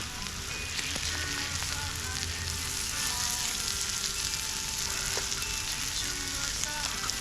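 Halloumi and hot dogs frying in butter in a pan: a steady sizzle with small crackling pops.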